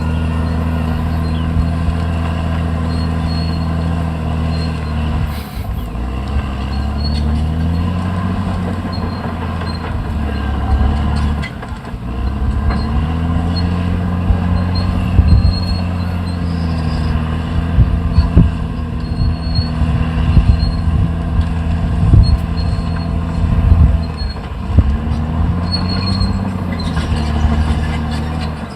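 Caterpillar D6R XL bulldozer's diesel engine running under heavy load. Its pitch sags and climbs back several times as it lugs and recovers, and in the second half it is joined by sharp metallic clanks.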